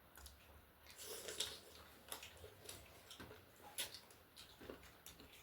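Faint eating sounds: scattered small clicks and smacks, a few seconds apart, of someone chewing food.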